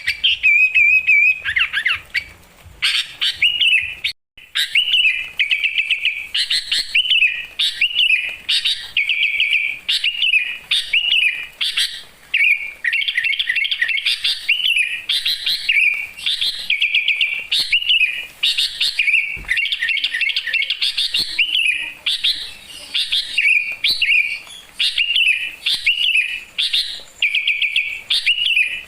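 A songbird singing a long run of quick, high-pitched chirping and trilling phrases, repeated every second or two, with a brief break about four seconds in.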